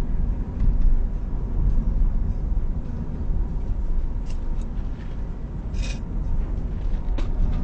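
Steady low rumbling noise, with a few short clicks and a brief hiss about six seconds in.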